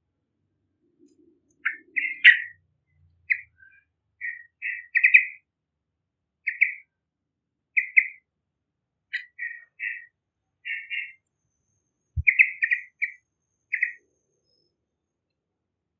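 Yellow-vented bulbul (trucukan) calling: about a dozen short, bubbly chirping phrases, each a fraction of a second long, with short pauses between them.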